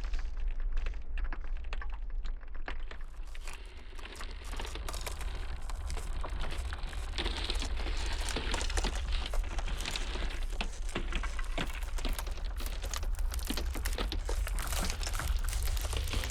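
Ice crackling and popping in a dense, irregular stream of small sharp cracks, over a steady low rumble of blizzard wind.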